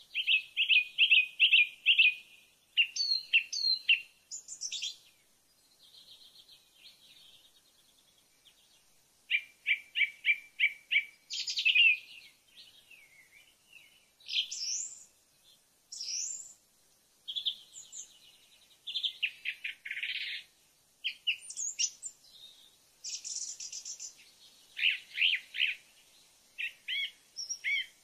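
A songbird singing: phrases of quick repeated high notes and short whistles, each phrase a second or two long, with brief pauses between them.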